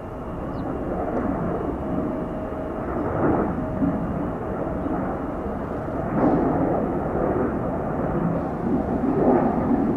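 Regional jet departing at takeoff power: a rough rumbling jet-engine noise that builds in the first second and stays loud, swelling and fading unevenly.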